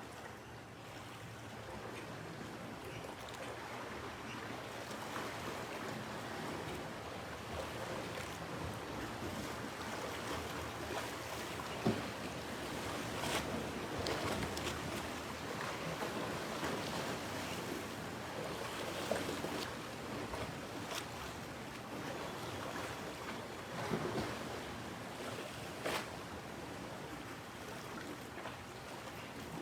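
Ocean surf washing in steadily, with wind and a few sharp clicks scattered through it.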